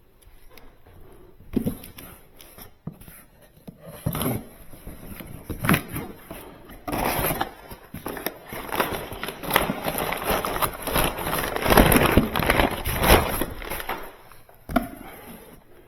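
Things being handled and taken off a refrigerator: scattered knocks and clicks, then several seconds of dense rustling, crinkling and scraping from about seven to thirteen seconds in.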